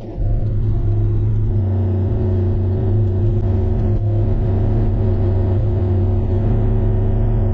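Bobcat E35 mini excavator's diesel engine running steadily at working speed.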